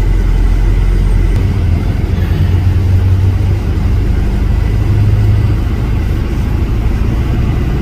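Motor vehicle engine running with a steady low rumble; about a second and a half in, the deepest note gives way to a slightly higher hum.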